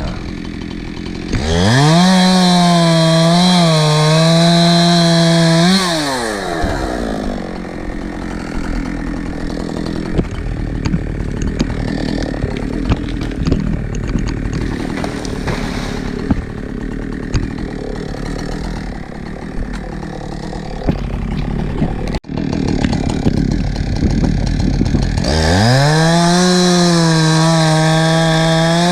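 Husqvarna two-stroke chainsaw revved up to full throttle and held for about four seconds, then let back down to a lower run for a long stretch. After a sudden brief dropout, it revs up to full throttle again and holds near the end.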